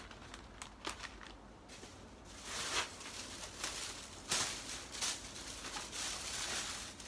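Plastic food packaging crinkling and rustling as it is handled, with a few light clicks at first and dense crackling rustles from about two seconds in.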